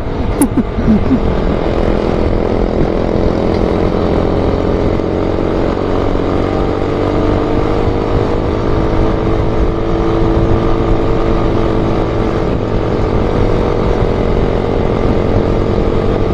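Motorcycle engine running steadily while being ridden, its pitch drifting slowly up and down over a low rumble.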